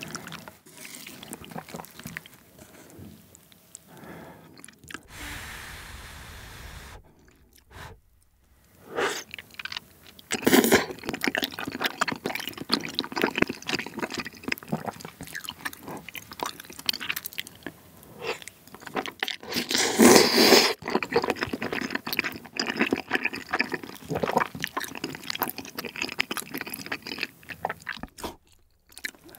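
Close-miked eating sounds: chewy wheat-flour tteokbokki rice cakes in spicy sauce being chewed, with wet smacking mouth sounds. Louder bursts come about 10 seconds in and again about 20 seconds in.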